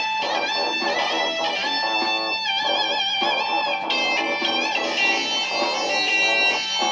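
Layered electric guitar loops playing continuously, several lines at once, with notes that bend and waver in pitch.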